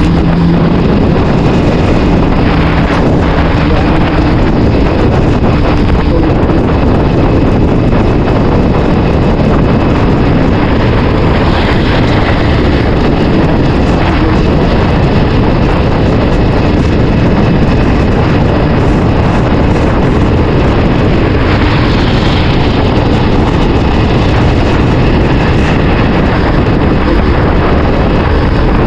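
Heavy wind noise on the microphone of a moving CF Moto 450SR, with the bike's parallel-twin engine running underneath; the engine note is plainest in the first second, then mostly buried under the wind.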